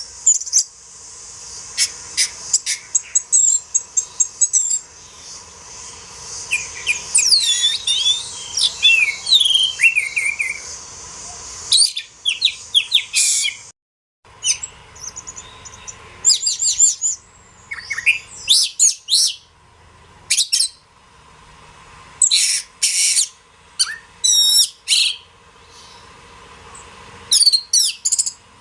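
Oriental magpie-robin (kacer) singing: loud phrases of clear whistles, fast sweeping notes and short trills, separated by brief pauses, with a faint steady hum beneath. The sound cuts out completely for a moment about halfway through.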